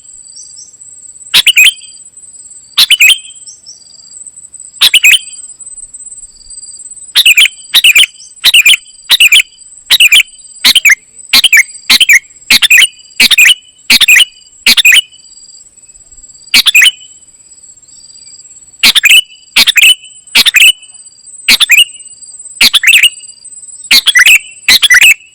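Kutilang emas (a bulbul) giving loud, short, sharp chirps that drop in pitch. They come one at a time at irregular gaps, sometimes in quick runs, over a steady high-pitched tone.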